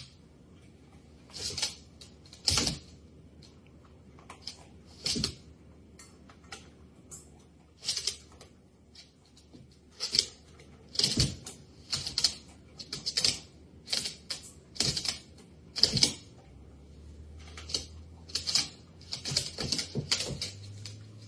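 Irregular taps and rustling clicks, a dozen or more spaced unevenly, coming thicker in the second half.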